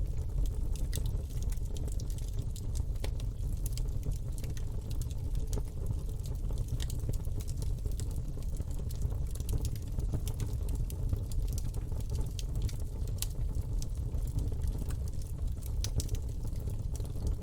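Campfire burning: wood crackling and popping in irregular sharp snaps over a steady low rumble of the fire.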